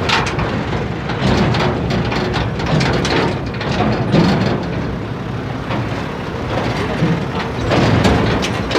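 Tractor engine running under load, with steady clattering and rattling of loose metal throughout.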